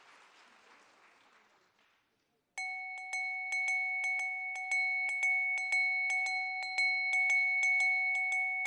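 A ringing metal percussion instrument, struck again and again at about two to three strokes a second with a steady bell-like ring. It starts about two and a half seconds in, after faint room noise.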